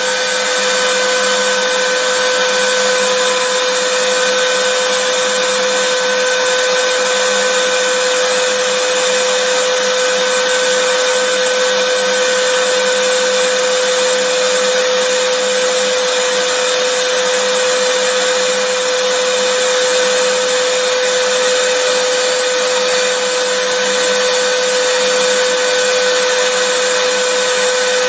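Vacuum cleaner running steadily: a constant rush of air with a steady whine from the motor.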